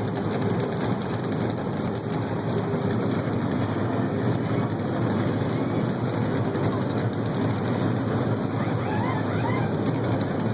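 NASCAR stock car V8 engines running together during pre-race engine warm-up: a steady, unbroken rumble.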